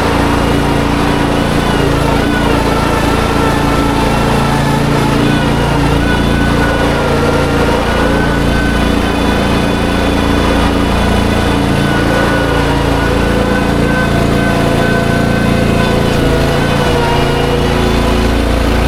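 An engine of farm machinery running steadily at a constant speed, with a slightly wavering whine higher up.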